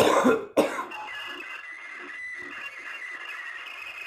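A grating, high-pitched scraping screech, one of the 'horrible sounds' played for the reaction: a loud start, then a sustained rasp with steady shrill tones that holds without a break.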